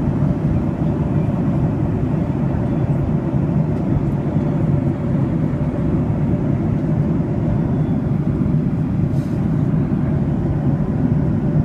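Airplane's steady low rumble, holding an even level throughout with no rise or fall.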